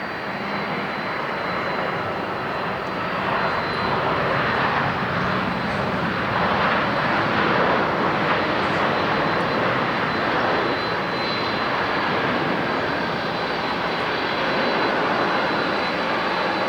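Jet airliner passing with its engines running. The roar swells over the first few seconds and stays loud, with a faint steady high whine above it.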